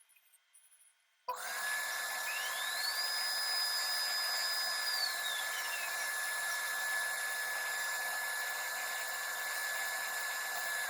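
LPKF ProtoMat S63 circuit-board plotter's high-speed spindle starting abruptly about a second in and running with a steady high-pitched whine. From about two to six seconds in a second tone rises, holds and falls, as of an axis motor moving the head.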